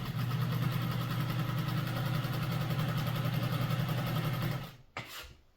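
Pfaff 130 sewing machine running at a steady speed while sewing a straight stitch, then stopping about three-quarters of a second before the end, with a brief knock just after.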